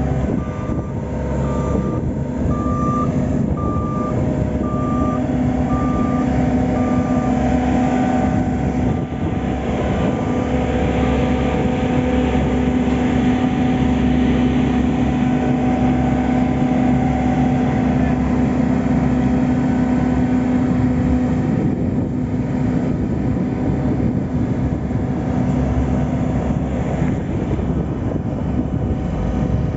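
Heavy road-works vehicle's engine running steadily under load, its reversing alarm beeping at an even pace and fading out about ten seconds in.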